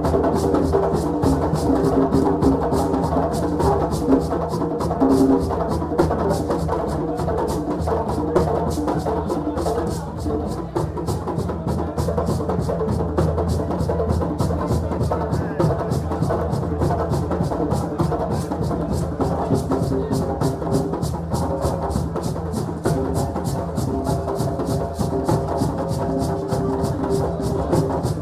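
West African celebration drumming: several drums played together in a fast, steady beat, with voices mixed in over the drums.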